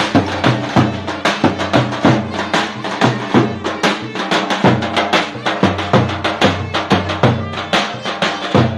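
Traditional folk dance music: a drum beating a steady, quick rhythm of about three to four strikes a second under a held, pitched melody.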